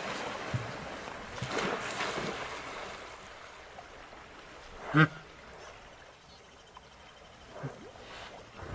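A steady rushing of water or wind, then one short, loud animal call about halfway through and a fainter one near the end.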